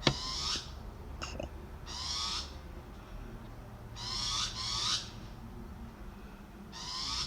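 A bird calling over and over in short, harsh calls of about half a second each, five in all, two of them back to back about four seconds in. A sharp click comes right at the start.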